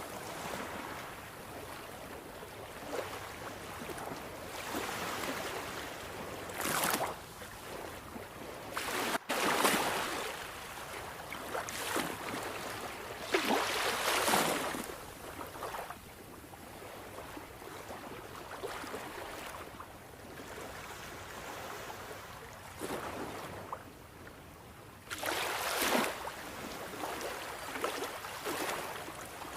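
Sea waves washing onto the shore: a steady rush of surf that swells into louder breaking surges every few seconds, at uneven intervals.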